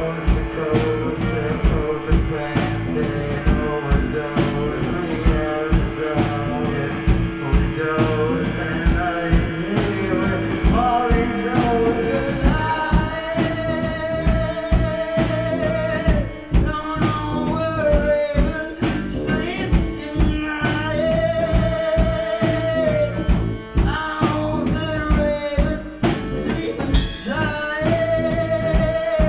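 Live gypsy rock band playing a song: a drum kit keeps a steady beat under guitar and bass, and a held melody line comes in on top about halfway through.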